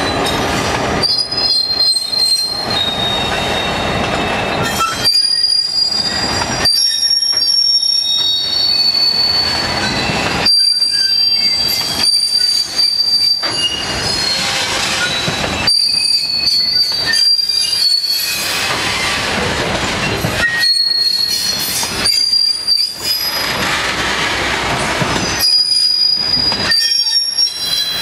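An Australian broad-gauge diesel locomotive runs past close by for the first few seconds. A long string of bogie hopper wagons follows, rolling and clattering past, their wheels squealing in high steady tones that come and go.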